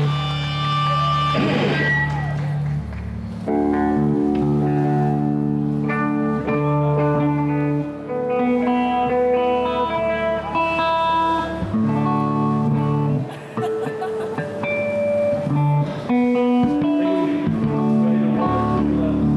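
A live band playing, with guitar notes ringing over held low chords that change every second or two.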